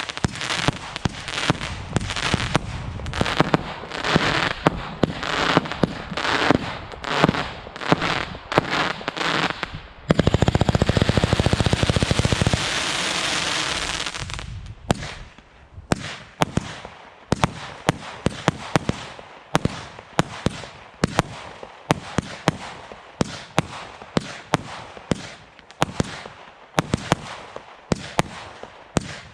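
Display fireworks (barrages and single-ignition cakes) firing. A dense run of bangs gives way, about ten seconds in, to a loud unbroken burst lasting about four seconds, followed by a steady string of sharp single bangs, roughly two a second.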